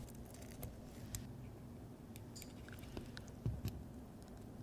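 Faint scattered clicks and ticks of small watchmaking tools working on a pocket watch movement while the balance is being removed, with a duller bump about three and a half seconds in, over a low steady hum.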